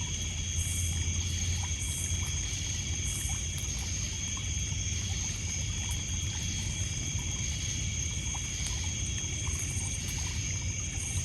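Night insects such as crickets trilling steadily at several high pitches, with a faster pulsing insect call in the first few seconds and again near the end. Under it, water lapping on a pebble shore and faint scattered crackles from a campfire.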